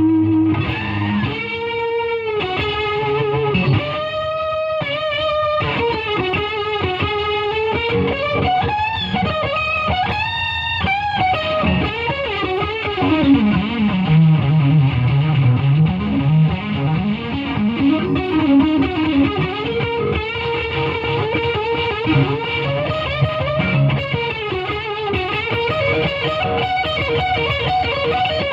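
Electric guitar played through a Fulltone Octafuzz fuzz pedal into a Fender Super Champ amp: fuzzy, sustained single-note lead lines with bends and vibrato, including a low note that bends down and back up about halfway through.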